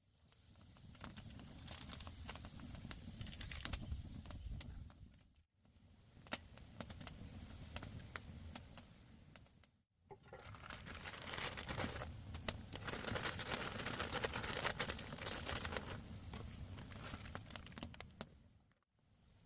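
Crinkling and rustling, in several stretches broken by short cuts to silence, loudest in the second half.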